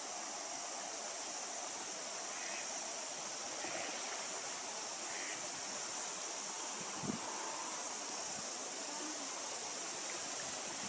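Steady outdoor hiss, strongest in the high end, with a few faint short chirps and one soft low bump about seven seconds in.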